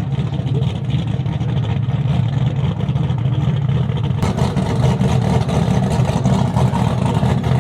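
Twin-turbo Chevy Silverado drag truck's engine idling loudly with a choppy, uneven beat. About four seconds in, a rushing noise joins it and it gets louder.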